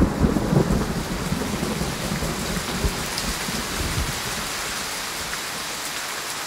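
Heavy rain falling steadily, with a low rumble of thunder dying away over the first second or two.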